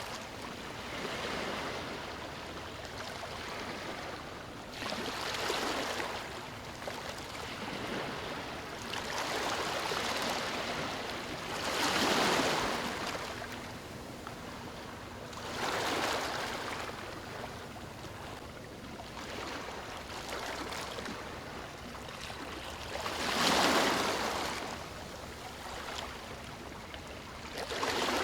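Ocean waves breaking and washing up a beach, a steady hiss of surf that swells with each wave every few seconds; the biggest waves break about 12 and 23 seconds in.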